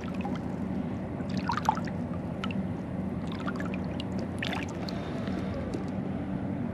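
Water trickling and lapping beside a kayak, with a few faint small splashes about a second and a half in and again near the middle, over a steady low hum.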